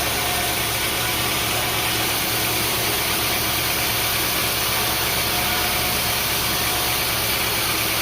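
Sawmill machinery running steadily: an even, unchanging engine-like noise with a faint steady whine.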